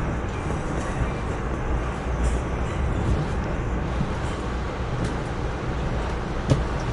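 Amtrak Northeast Regional train rolling slowly into Washington Union Station, heard from aboard: a steady low rumble with a single short knock near the end.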